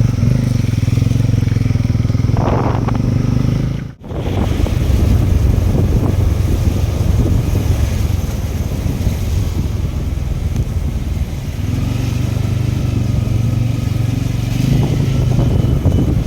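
Motorcycle engine running steadily while riding, with road and wind rush around it. The sound drops out for an instant about four seconds in.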